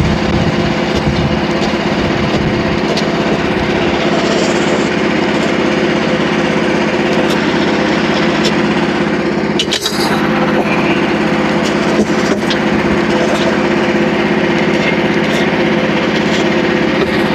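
Frontier portable bandsaw sawmill's small engine running steadily, with a couple of sharp knocks about ten and twelve seconds in.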